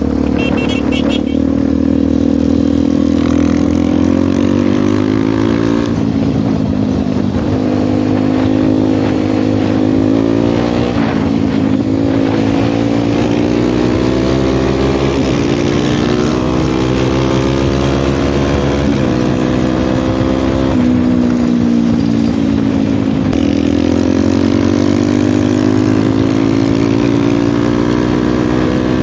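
RVM CZ 250T four-stroke enduro motorcycle engine running under a rider. It holds a steady note at first, then rises in pitch and falls back about every four to five seconds as the throttle is opened and closed.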